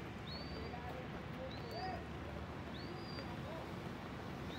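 A bird calling over and over, a short high whistle that rises and then holds level, about once a second, the last one held longer, over a steady background hiss.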